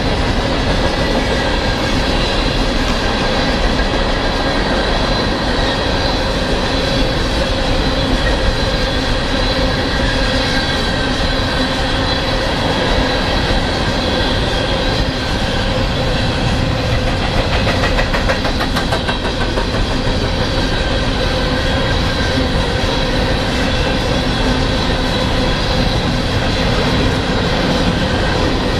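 A long string of coal hopper cars rolling past at speed: a steady rumble and rail roar from the steel wheels, with a thin steady whine over it and a quick run of wheel clicks over rail joints around the middle.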